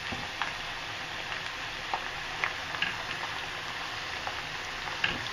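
Fresh-cut potato fries frying in hot oil in a stainless steel pot: a steady sizzle with scattered small pops and crackles.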